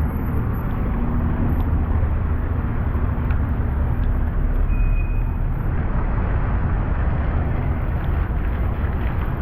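Cars driving past on a town street: a steady rumble of engines and tyre noise.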